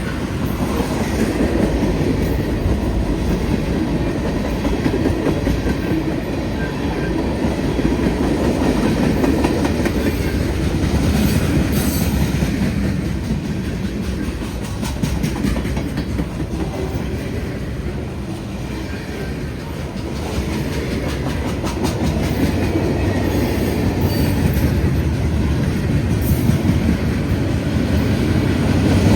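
Freight train's cars rolling steadily past, wheels rumbling and clacking over the rail joints, with a few sharper clicks about eleven seconds in and near the end.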